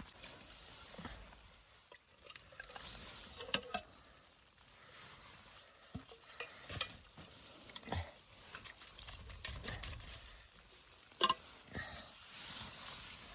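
Scattered small clicks and knocks with a faint rustle between them, the sharpest knock about eleven seconds in.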